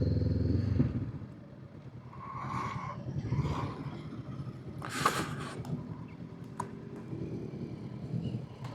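Honda CB500X parallel-twin engine idling, then dying away about a second in as the bike is stopped and parked. Quieter vehicle noise and a few brief hissing rushes follow.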